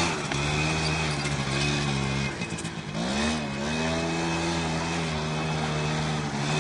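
Suzuki LT80 quad's small single-cylinder four-stroke engine running at steady throttle. A little past two seconds in it eases off and drops in pitch, then picks back up and holds steady from about three seconds in.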